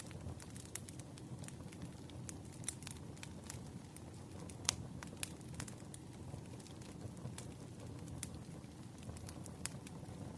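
Firewood burning: a steady low rumble of flame with frequent sharp crackles and pops, one louder pop about halfway through.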